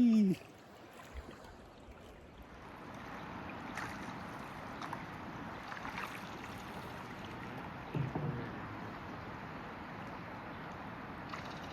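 Canoe crossing a river: steady rush of moving water around the hull, with a few faint knocks or splashes, likely from paddle strokes.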